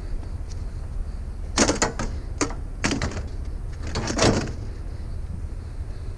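A rusted, seized metal part being forced: a few sharp metal clanks and knocks from about a second and a half in, ending in a longer scrape about four seconds in.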